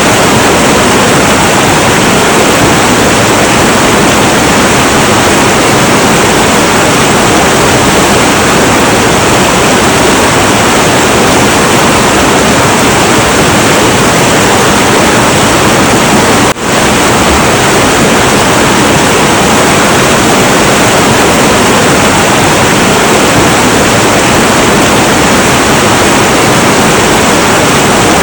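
Heavy, turbulent river water rushing in a loud, steady flow, with a brief dip in level a little past halfway.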